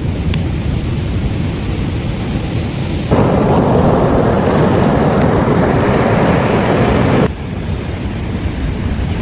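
Steady rumble of wind and surf. About three seconds in, a louder rushing noise cuts in abruptly and stops just as suddenly about four seconds later.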